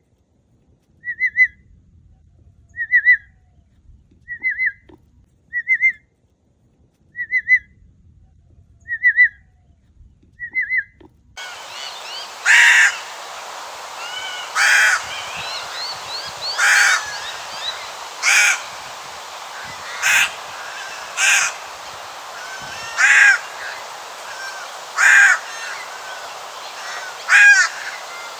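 A series of short, high chirped notes repeats about every second and a half. About eleven seconds in, they give way to a channel-billed cuckoo's loud, harsh screeching calls, repeated about every two seconds, with fainter chirps from other birds behind them.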